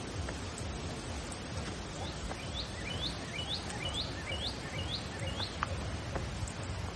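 A bird singing a run of about eight short, rising, hooked notes, roughly two a second, over a steady rushing background noise.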